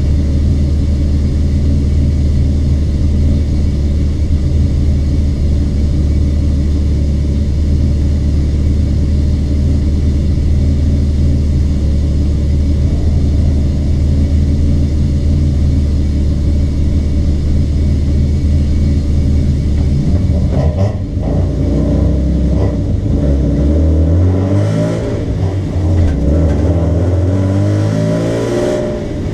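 BMW 325i's straight-six engine idling steadily inside the stripped cabin. About 21 seconds in, it pulls away. The engine revs rise and drop back with each gear change as the car accelerates.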